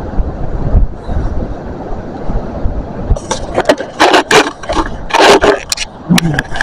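Wind rumbling on the microphone, then from about three seconds in a run of close scrapes and rustles as the camera is handled.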